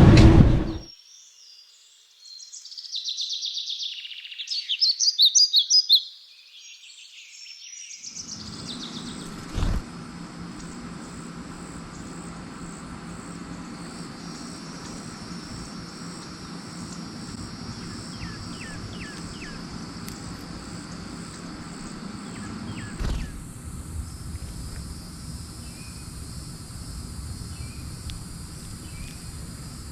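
Outdoor ambience: insects buzzing steadily at a high pitch, with short bird chirps now and then. The first few seconds hold only high-pitched bird calls, ending in a rapid run of notes.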